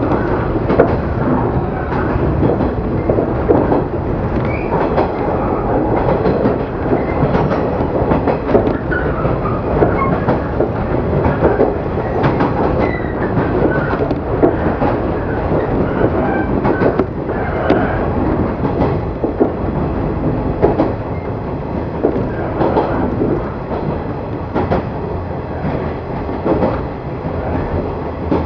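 JR 115 series electric train running at speed, heard from inside the passenger car: steady rolling noise of wheels on rails, with sharp irregular clatter as the wheels pass over rail joints.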